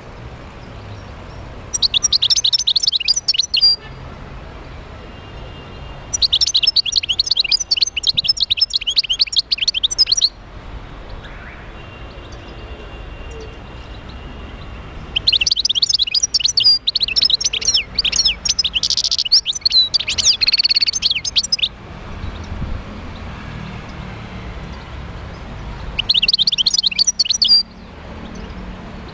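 European goldfinch song in four bursts of rapid, high chirping notes, the longest lasting about six seconds, with quieter pauses between the phrases.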